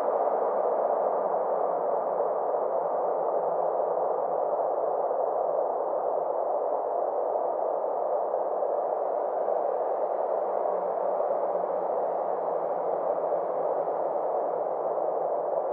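Steady synthesized ambient 'space' drone of filtered, rushing noise with a faint low hum beneath it; its brightness slowly sinks and swells again, with no breaks.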